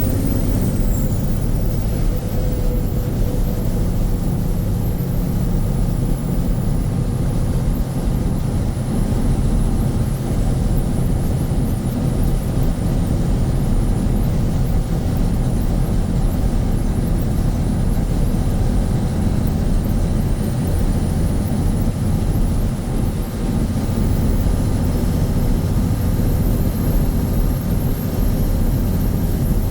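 Mack RS700L truck's turbocharged diesel engine running steadily while driving, a constant low drone with a faint high whine gliding slowly above it.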